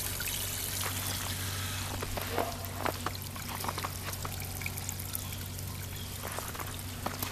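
Water pouring and trickling steadily from a small garden waterfall fountain, with scattered splashes and drips.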